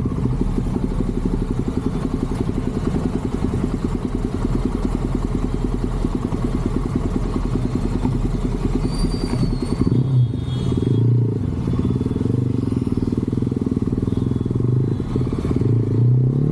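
Motorcycle engine running under way, with a quick steady beat of firing pulses for about the first ten seconds, then a smoother, steadier engine note.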